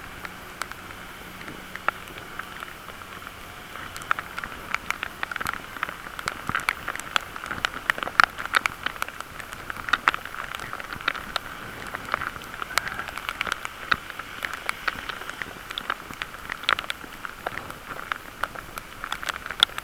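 Bicycle ride noise muffled through a waterproof camera case: a steady hiss with many irregular sharp clicks and crackles.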